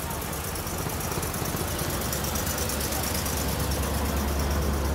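Car engine running at low speed, a steady low rumble that grows louder near the end.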